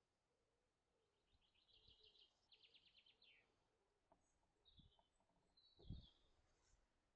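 Faint songbird singing: a quick run of repeated high notes about a second in, then a few short calls. A soft low thump near the end.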